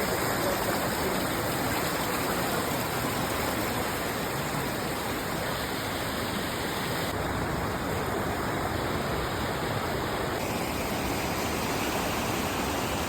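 Steady rushing roar of a large waterfall, water crashing down without pause.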